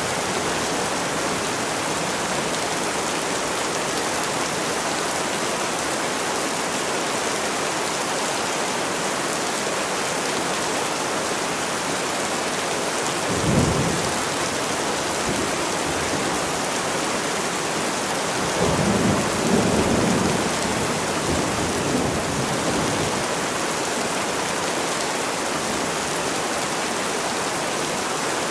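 Steady rain falling, an even hiss throughout. Thunder sounds twice: a short low rumble about halfway through, then a longer rolling rumble a few seconds later that fades out.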